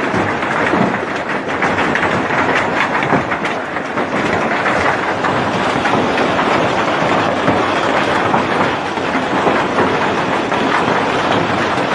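Heavy rain with hailstones pelting down, a loud, steady clatter of countless impacts.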